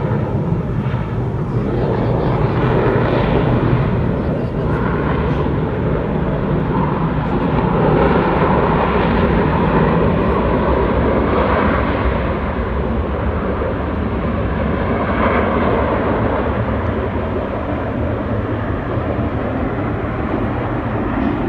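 Fixed-wing aircraft engine noise, a continuous rushing sound that grows louder a few seconds in and eases off in the second half.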